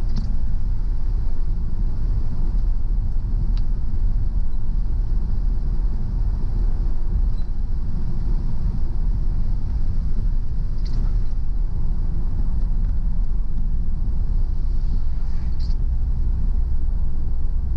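Car driving: a steady low rumble of engine and road noise, with a few faint, brief high squeaks.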